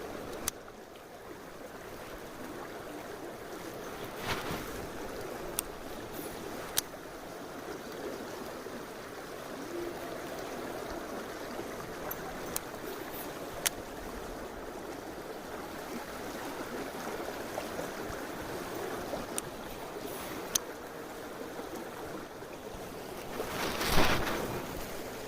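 Mountain stream running over rocks: a steady rushing of water, with scattered small clicks and a louder rush lasting about a second near the end.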